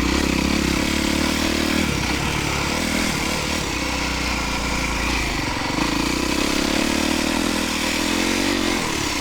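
Dirt bike engine running at low revs, its pitch drifting gently up and down.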